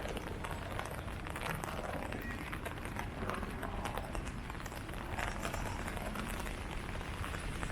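Rain falling on leaves: a steady wash of rain noise dotted with many small, sharp drop hits.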